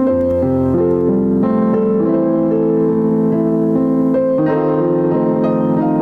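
Keyboard playing slow, sustained chords, the notes changing about every second.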